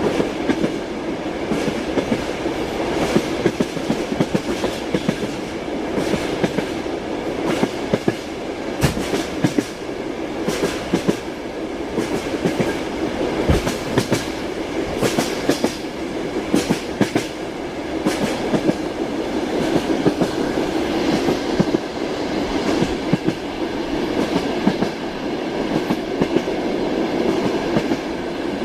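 A moving train car: its wheels clatter over the rail joints against a steady rumble, with frequent sharp clicks and knocks.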